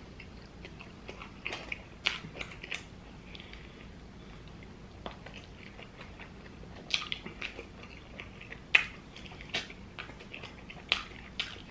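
Close-up mouth sounds of a man eating saucy chicken wings: chewing with irregular wet lip smacks and clicks, a few sharper ones about two, seven, nine and eleven seconds in.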